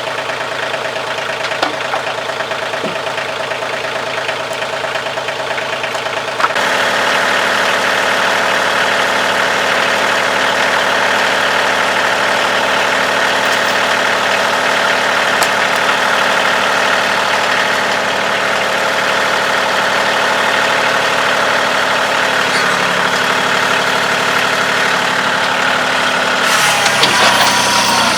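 Kioti CK2610 compact tractor's three-cylinder diesel engine running steadily. It gets louder about six seconds in, and its pitch wavers near the end.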